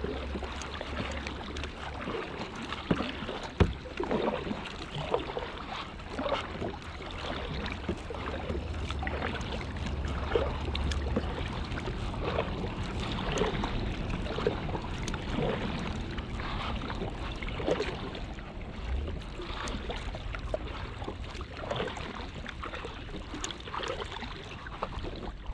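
Kayak paddling on a river: paddle blades dipping and splashing in irregular strokes, with water dripping and an occasional sharp knock.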